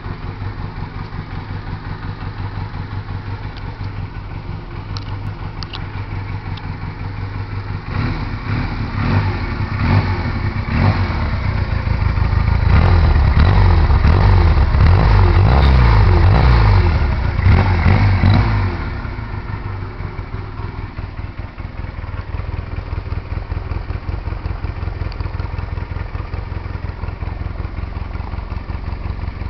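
2003 Honda Rebel 125's two-cylinder engine through a drilled exhaust, idling steadily, then blipped several times from about eight seconds in and held at higher revs before dropping back to idle near the twenty-second mark.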